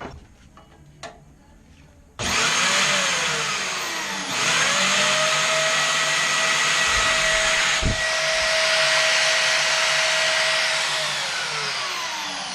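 Electric power tool motor started with a loud whine and hiss. It winds down briefly, is triggered again about two seconds later and runs steadily, then is released and spins down slowly near the end.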